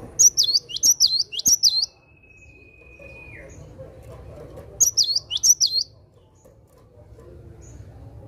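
Cinereous tit (gelatik batu) singing its repeated two-note "wucit wucit" song in two loud phrases of several high, sharply sweeping notes, each lasting about a second or more, about three seconds apart.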